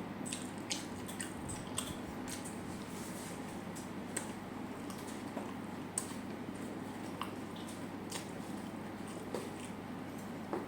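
A person chewing food close to the microphone: wet mouth sounds with scattered short, sharp clicks, over a steady low hum.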